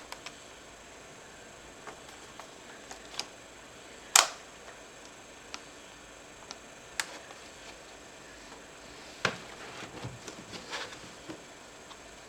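Scattered clicks and knocks from HP ProBook 4520s laptop parts and small tools being handled during disassembly. The loudest is a sharp click about four seconds in, with a busier run of small taps around ten seconds.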